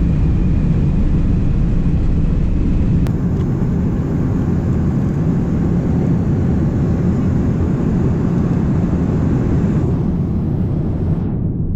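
Steady low roar of an airliner's jet engines and airflow heard from inside the cabin during takeoff.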